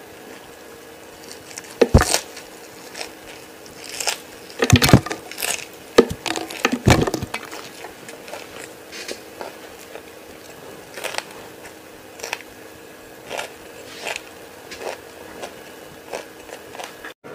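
Close-miked crunchy biting and chewing of raw green vegetables. Loud crunches come about two, five and seven seconds in, then quieter chewing crunches about once a second.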